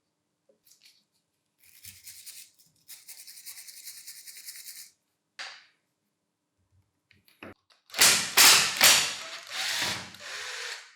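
Hand work on the grinder's parts: a few seconds of light scraping, a short rub, then from about eight seconds in a louder stretch of harsh scraping or brushing.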